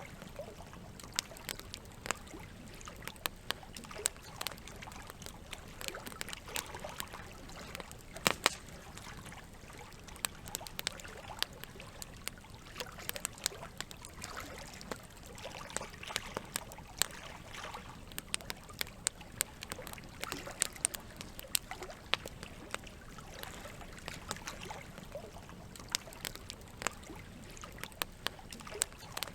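Campfire crackling, with irregular sharp pops and snaps of burning wood, a couple of them louder, over a steady soft wash of water.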